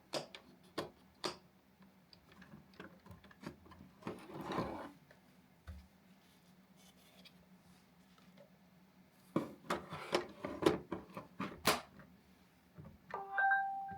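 Scattered sharp clicks and knocks over a faint steady hum from an idle Roomba i3+ robot vacuum that is not cleaning, with a short rustle about four seconds in. Near the end the robot plays a short electronic error tone, the lead-in to its spoken 'obstacle detected' alert.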